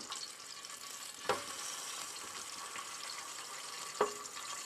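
Floured pieces of carp shallow-frying in oil in a frying pan, a steady sizzle. The metal tongs give two sharp clicks, about a second in and near the end.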